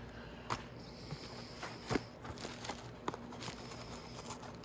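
Light handling noises: a few sharp clicks and taps with faint rustling as small parts and packaging are moved about.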